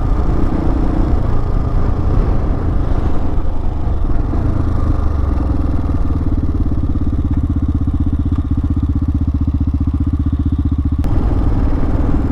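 Hawk 250 single-cylinder motorcycle engine running under a rider, with wind noise at first. In the second half it settles into an even, rapid low thumping, then the sound changes abruptly near the end.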